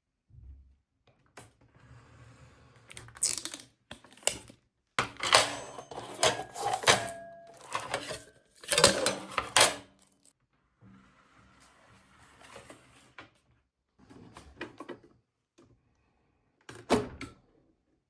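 Clicks, knocks and short scraping sounds of plastic and metal parts of an espresso machine being handled, in irregular bunches, loudest in the middle and with one sharp knock near the end.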